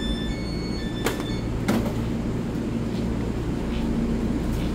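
EMU3000 electric multiple unit standing at the platform with its doors open, its onboard equipment giving a steady low hum. Two short knocks come about one and two seconds in.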